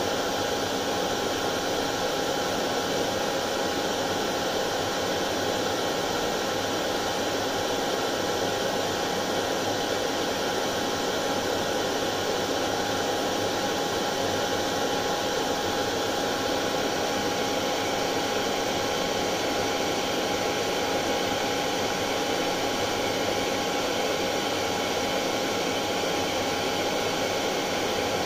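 Hair dryer running steadily: an even airflow rush with a constant motor whine, unchanging throughout, played as white noise to soothe colicky babies.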